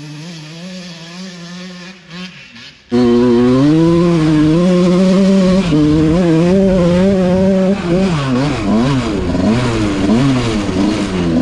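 Dirt bike engine being ridden, its pitch rising and falling with the throttle. About three seconds in the engine sound jumps suddenly much louder and stays loud, with quicker rises and falls near the end.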